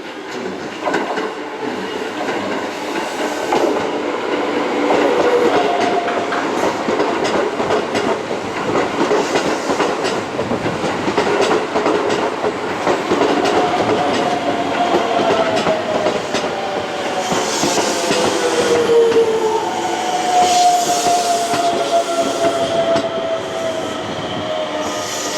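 Electric train running through the station, wheels clattering over rail joints, with a whine in the second half that falls steadily in pitch.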